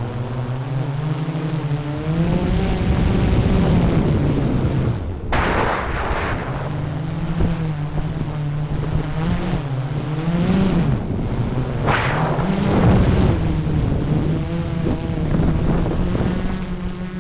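DJI Mavic 3 Pro quadcopter's propellers buzzing in flight, the pitch of the hum shifting up and down as the motors change speed. Two brief rushes of noise about five and twelve seconds in, and the sound fades near the end.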